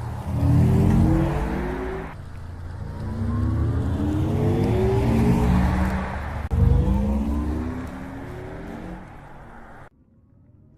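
A car accelerating hard, its motor note climbing in pitch in several runs broken by abrupt cuts, dropping to a faint rising whine near the end.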